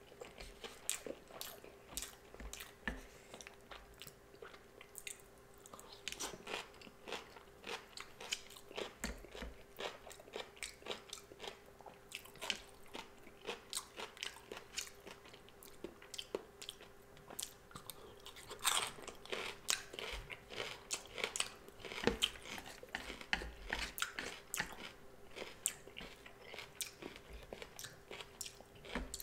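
Close-miked chewing of sushi: a steady run of wet clicks and crunches from the mouth, busier about six seconds in and again from about eighteen to twenty-four seconds.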